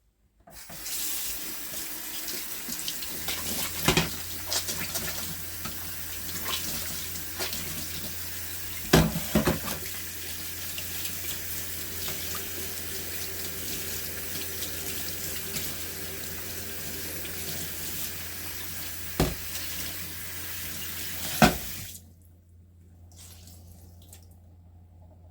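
Kitchen tap running water into a sink, with a few sharp knocks against the sink as things are handled under it; the water shuts off suddenly near the end.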